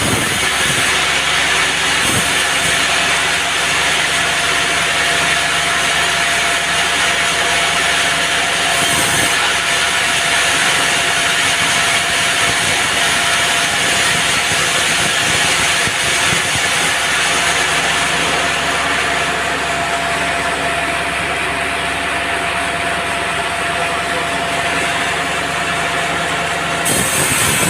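Band sawmill cutting through a teak log, the blade and its engine running steadily under load with a constant high whine.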